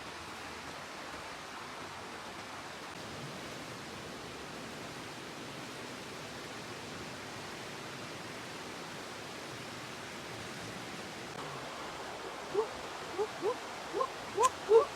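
A steady, even rushing hiss, then from about twelve seconds in a run of short, rising animal calls that come faster and louder toward the end.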